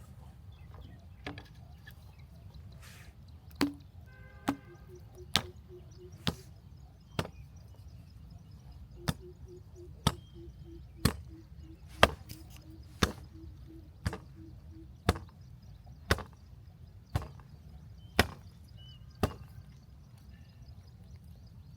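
Repeated sharp chopping blows, about one a second, some sixteen strikes with a short break about halfway through.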